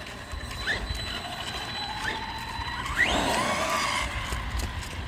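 A 3S brushless RC monster truck's electric motor and drivetrain whining in short rising bursts as the throttle is blipped, then a longer rising whine about three seconds in as it accelerates.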